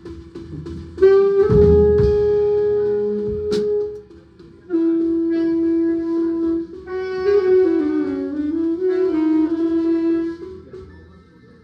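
Saxophone playing long held notes with short gaps between them, and a phrase near the middle that dips down and climbs back. A few drum hits land in the first few seconds.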